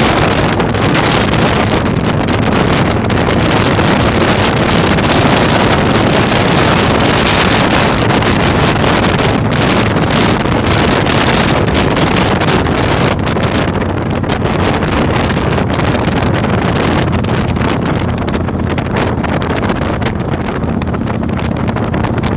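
Heavy wind buffeting on the microphone of a moving Yamaha Virago 1100 motorcycle, with the bike's V-twin engine droning low underneath. The wind eases slightly about two-thirds of the way through.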